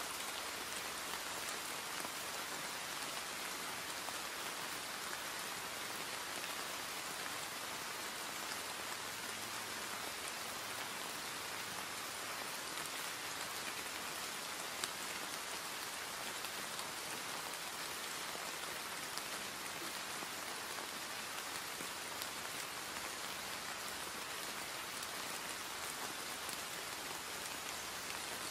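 Steady rain falling on hard surfaces, an even hiss with scattered drop patter and one slightly louder tick about halfway through.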